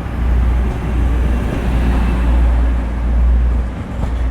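First TransPennine Express Class 185 diesel multiple unit's Cummins engines running at the platform, a steady heavy low rumble.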